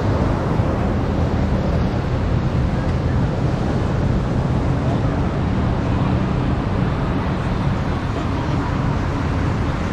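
Steady rumble of a running vehicle, with a low engine hum and wind noise.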